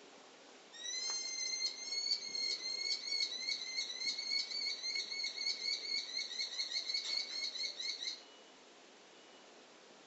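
A bird calling in a long run of quick, sharp, repeated high notes, about four a second, starting about a second in and lasting some seven seconds.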